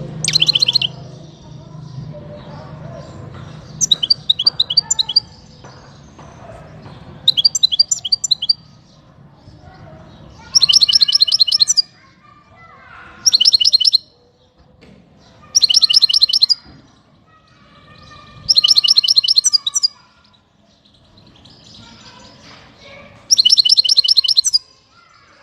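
A small finch singing in short bursts of rapid, high, repeated trilled notes, each burst about a second long, eight bursts spaced a few seconds apart.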